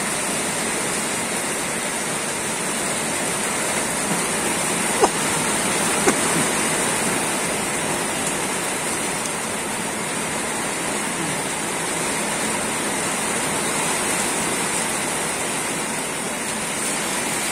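Heavy rain falling steadily, an even, dense hiss, with two brief sharp taps about five and six seconds in.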